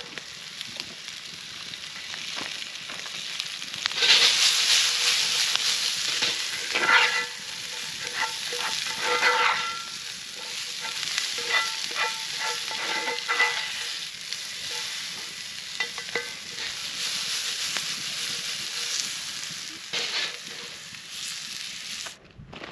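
Onions and zucchini sizzling in hot oil in a cast-iron skillet over a campfire, the sizzle loudest from about four seconds in. A metal spatula stirs them, with clinks and scrapes against the pan in clusters through the middle.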